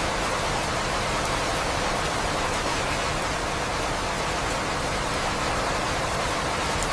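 Steady heavy rain, an even hiss of falling water with no breaks and no thunder.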